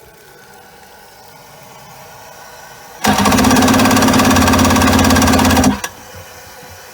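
The Wetjet Duo's 701cc two-stroke engine is tried on the starter. About three seconds in it gives a loud burst of fast pulsing engine noise lasting under three seconds, then cuts out abruptly. Beneath it, a fainter steady sound of water running through the hooked-up hose.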